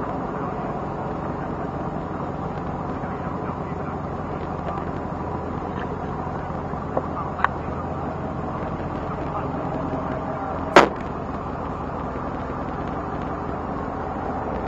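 Shelby Cobra's V8 engine running steadily at low speed. A single loud, sharp crack about eleven seconds in, with two smaller clicks a few seconds before it.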